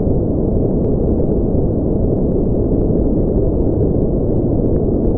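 Steady generated sleep noise, a deep, even rush with no high hiss, holding one level throughout.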